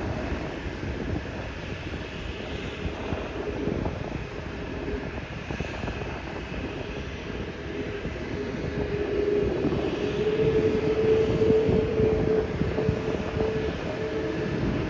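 Jet airliner engine noise on an airport ramp: a steady rush with a held whine that grows louder past the middle, then eases slightly.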